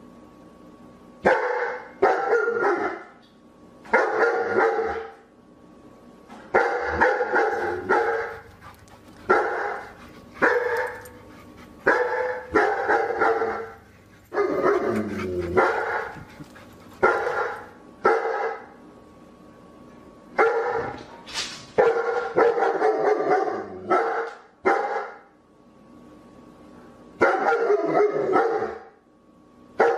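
A dog barking over and over, in single barks and quick runs of two or three, with short gaps between.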